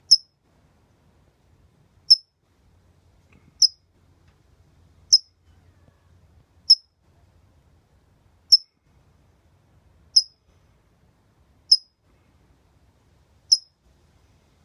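Small bird, which the owner takes for a finch of some kind, giving short, sharp, high-pitched chirps, one every second and a half or so, nine in all.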